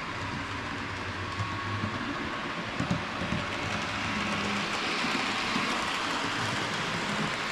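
Bachmann HO-scale GP40 model locomotive running on its track: a steady motor whir with a few light clicks from the wheels, getting a little louder past the middle. The motor runs a bit loud for a model engine.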